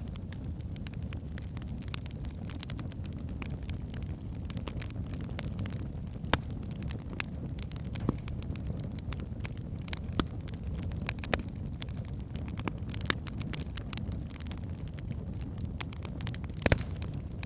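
Wood fire burning in a fireplace: a steady low rumble of flames with irregular sharp crackles and pops, a few louder pops about six seconds in and near the end.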